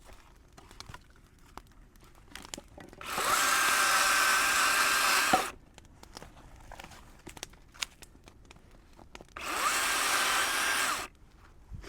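Battery-powered power tool's electric motor run in two short bursts, each spinning up with a rising whine, holding steady, then cutting off. Light crackling between the bursts.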